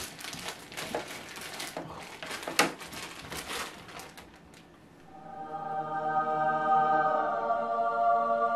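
Packaging crinkling and rustling as a parcel is torn open, with one sharp snap about two and a half seconds in. About five seconds in, a choir chord swells up and is held as a sustained 'aah'.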